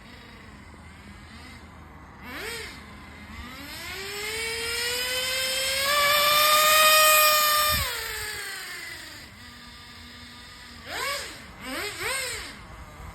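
Small nitro glow engine of an FTX Banzi RC drift car, a high-pitched whine. After a brief blip, it winds up steadily, holds high revs for a couple of seconds, then drops back to idle. Two quick throttle blips follow near the end.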